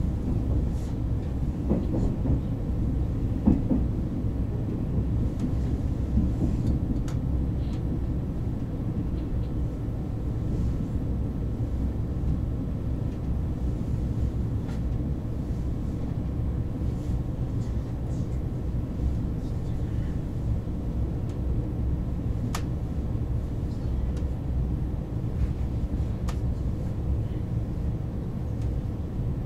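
Steady low rumble of a KTX high-speed train running along the line, heard from inside the passenger cabin, with a few faint clicks now and then.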